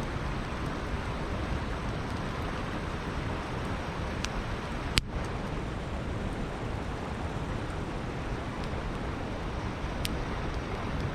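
Steady rush of flowing river water with a wood campfire crackling over it: a few sharp pops, the loudest one about halfway through.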